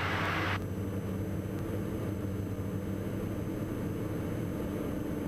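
Steady drone of a Diamond DA42 NG twin's engines and propellers as heard in the cockpit, with a brief hiss in the first half-second that cuts off suddenly.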